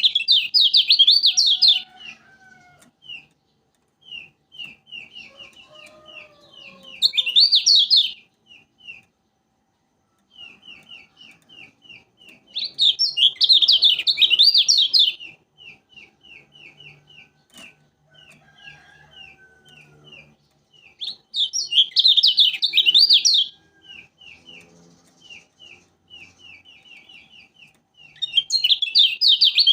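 Kecial kuning, a yellow white-eye from Lombok, singing: loud, fast warbling bursts about five times, with quick strings of short repeated chirps, several a second, between them.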